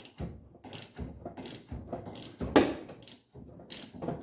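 Ratchet wrench clicking in short, irregular strokes as the bolt on the steering column's knuckle joint is undone, with one louder metallic knock about two and a half seconds in.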